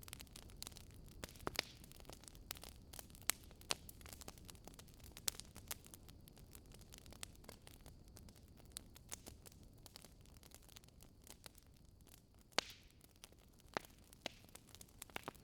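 Wood fire crackling in a fireplace: irregular sharp pops and snaps from the burning logs over a low steady rumble, with one louder pop about twelve seconds in.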